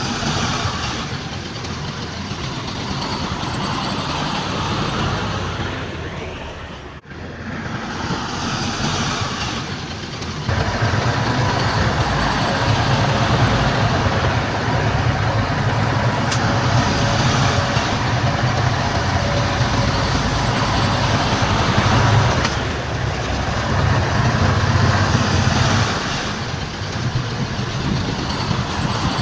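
Heavy earthmoving machinery running, its diesel engine giving a steady low rumble over outdoor noise. There is a short break about seven seconds in, and from about ten seconds on the engine rumble is much louder.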